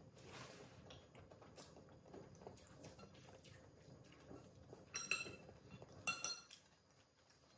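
Quiet eating at a table: chopsticks and forks tapping ceramic plates, with faint noises of eating. Two sharp ringing clinks of a utensil on a plate come about five and six seconds in.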